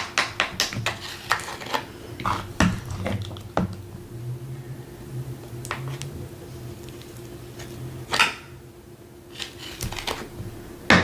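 A spoon tapping rapidly against a dish or taco, about five clicks a second for the first second and a half, to shake off a sticky topping such as sour cream. Scattered single knocks of utensils on dishes follow, with a faint low hum in the middle.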